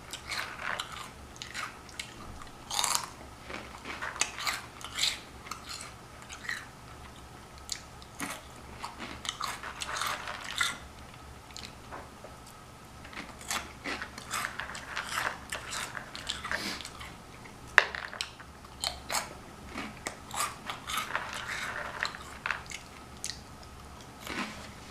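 Close-miked chewing of crunchy Flamin' Hot Cheetos: irregular crisp crunches and mouth clicks, with a couple of brief pauses.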